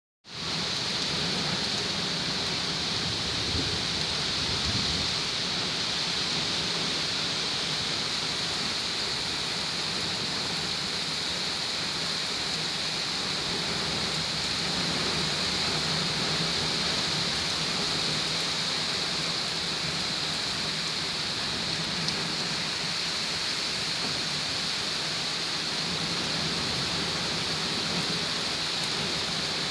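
Heavy rain pouring down steadily in a thunderstorm, an even hiss that does not let up.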